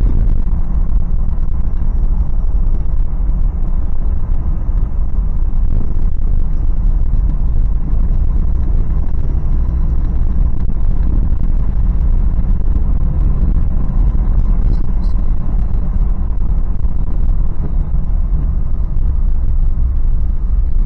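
Inside the cabin of a moving Toyota 4Runner: the steady low rumble of its 4.0-litre V6 together with road noise while cruising.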